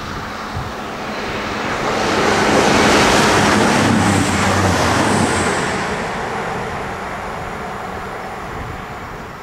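Diesel passenger train passing at speed: a rushing of wheels on rail and air, with a low engine hum underneath. It swells to its loudest about three seconds in, then fades away.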